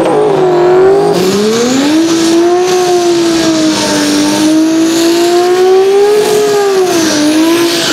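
Toyota Supra inline-six swapped into a Toyota pickup, held at high revs through a burnout, its pitch wavering slowly up and down, over the hiss and squeal of the spinning rear tyres.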